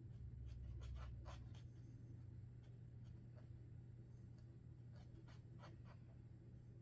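Sharpie Creative Markers stroking across a drawing surface: short, scratchy marker strokes in quick clusters, one about a second in and another about five seconds in. A faint, steady low hum sits underneath.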